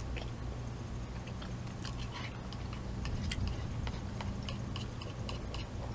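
Close-up chewing of udon noodles: irregular wet mouth clicks and smacks, over a steady low hum.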